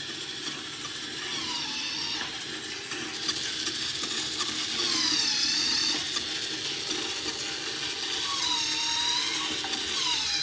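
Electric motor driving a homemade RC tractor gearbox, the gears whirring with a whine that dips in pitch and recovers several times, as if the output is being held against it by hand.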